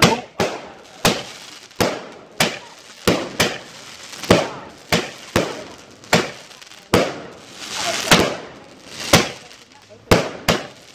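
Consumer fireworks going off in a rapid series of sharp bangs, about one to two a second, some bangs trailing a brief crackling hiss.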